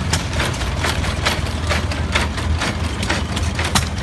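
An engine idling steadily, with a quick, slightly uneven run of sharp clicks or pops, about four to five a second, over a low hum.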